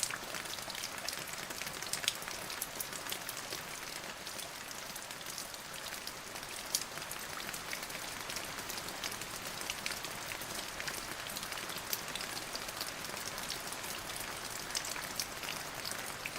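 Steady rain falling on a surface, a continuous hiss with many distinct drop impacts pattering irregularly through it.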